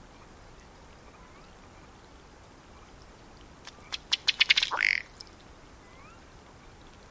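Male ruddy duck's bubbling display, about four seconds in: a run of sharp ticks that speeds up over about a second, ending in a short, low croaking burp that falls in pitch.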